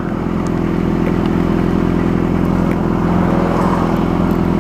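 Yamaha FZ6 motorcycle's inline-four engine running with a steady note, with wind and road noise.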